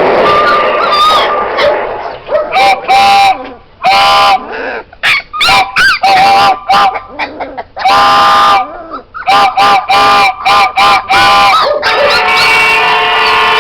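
Geese honking, many short calls in quick irregular runs, a sound recording played to the puppies to get them used to noises. Near the end a steady drone of several held pitches takes over.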